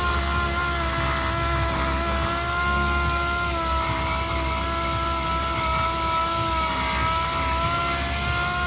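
A motor running steadily with a constant whine that wavers slightly in pitch.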